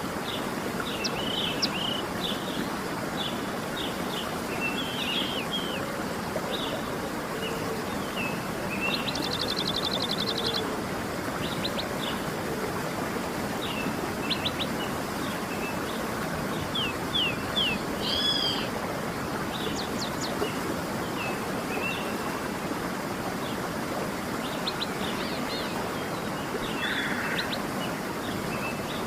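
Waterfall rushing steadily, with small birds chirping and calling over it; a rapid trill about nine seconds in.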